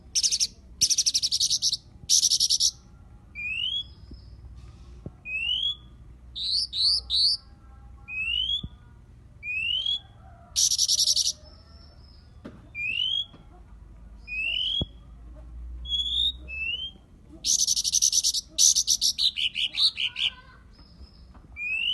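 Cyornis blue flycatcher calls: short rising whistled notes repeated about once a second, broken three times by loud, harsh buzzing bursts, near the start, about halfway, and again near the end.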